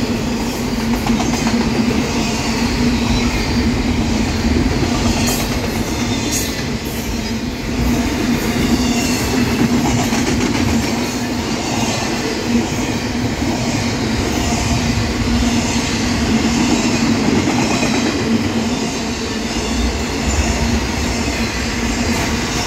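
BNSF intermodal freight train passing close by at speed, its double-stack container cars and trailer flatcars rolling past. The steel wheels on the rail make a loud, steady rush.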